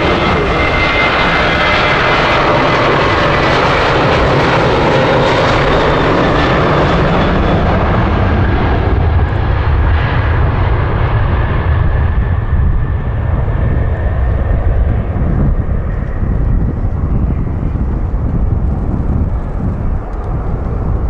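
Boeing 737-800's CFM56-7B jet engines heard as the airliner passes close by on landing: a loud jet whine with a high tone at first, the high part fading away after several seconds and leaving a deep, steady rumble.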